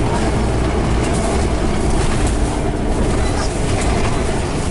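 Scania CN94UB Omnicity single-deck bus on the move: steady diesel engine and road noise with no pauses.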